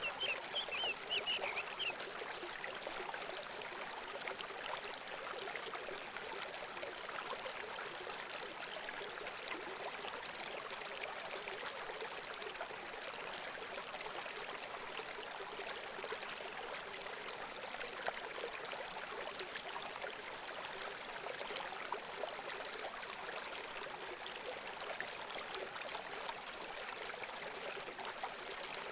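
Steady rush of running water, like a small stream, with a few quick bird chirps in the first couple of seconds.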